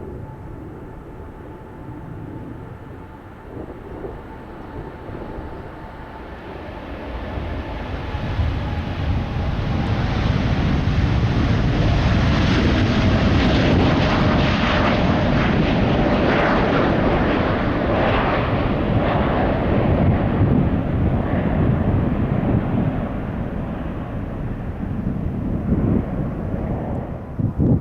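Jet airliner taking off and passing by: the engine rumble swells over several seconds, holds loud for a while, then fades, with a faint whine falling in pitch as the aircraft goes past.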